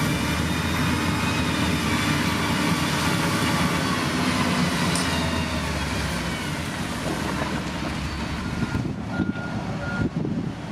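Heavy diesel construction machinery running, its engine rumble easing off about six seconds in. A few short high beeps sound near the end.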